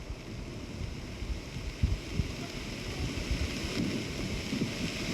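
Floodwater rushing with a steady hiss, while wind buffets the microphone in irregular low thumps.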